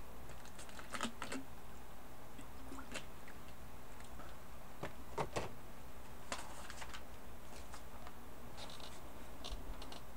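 Computer keyboard being typed on in scattered, irregular keystrokes, some in quick pairs, over a steady background hiss.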